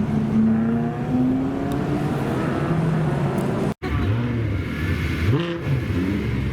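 Supercar engine accelerating hard, its pitch climbing steadily over the first couple of seconds. After a momentary dropout almost four seconds in, an engine is revved up and down in quick blips.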